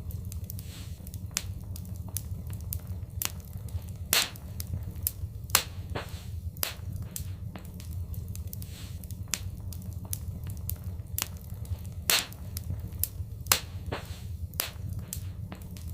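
Fireplace fire crackling: irregular sharp pops over a steady low rumble. The loudest pops come about four seconds in and twice more between twelve and fourteen seconds.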